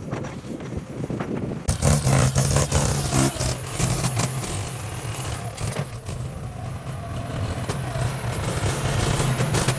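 Heavy construction machine's engine running steadily, with a burst of clattering knocks starting just under two seconds in.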